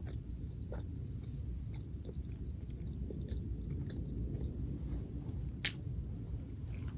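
A person chewing food close to the microphone, with small mouth clicks and one sharper click about two-thirds of the way in, over a steady low rumble.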